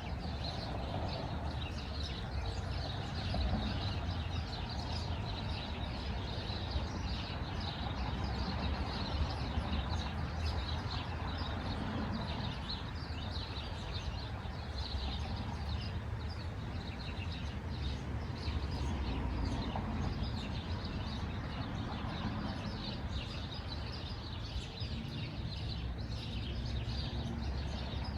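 Small birds chirping and tweeting in many quick, overlapping calls, over a steady low rumble.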